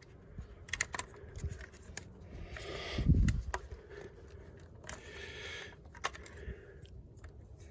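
Small clicks and scrapes of hands working a part into place on an engine, with a louder low knock about three seconds in and two short hissing rushes.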